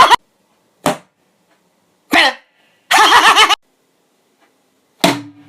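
Vocal sound effects made with the mouth, not words. There is a short pop, then a squeal falling in pitch, then a longer wobbling, sputtering burst, and near the end a short burst that settles into a low held hum.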